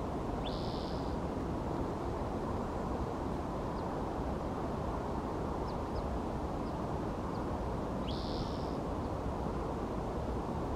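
Two short harsh bird calls about eight seconds apart, each a quick rising chirp that runs into a rasp, with a few faint high ticks between them. Underneath is a steady low background rumble.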